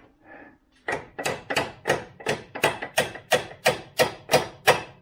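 A hammer striking metal, about a dozen evenly paced ringing blows at roughly three a second, starting about a second in.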